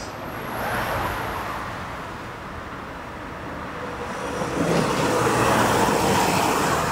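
Electric commuter train running into the station, its rumble and motor hum swelling from about four and a half seconds in and staying loud.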